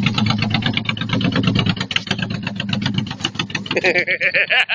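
Honda VTX1800 motorcycle's big V-twin engine running hard under throttle as the bike rides off, with rapid, even firing pulses. The engine cuts out about four seconds in, and a voice shouts near the end.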